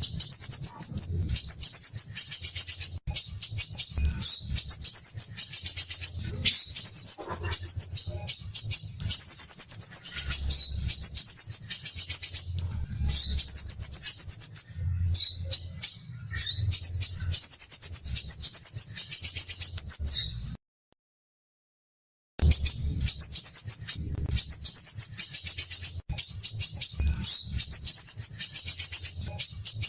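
Crimson sunbird singing its rapid, dense, high-pitched trills in phrases of a second or two, one after another. The song cuts out completely for about two seconds some two-thirds of the way through, then resumes.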